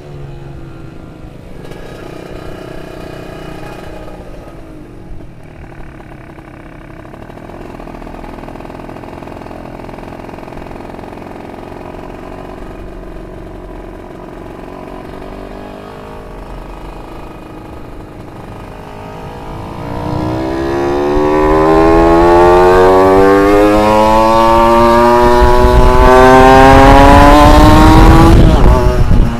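A 40 hp two-stroke engine running at moderate revs, its pitch wandering up and down. About two-thirds of the way through it is opened up: the note climbs steadily and gets much louder, peaking just before the end and then falling off.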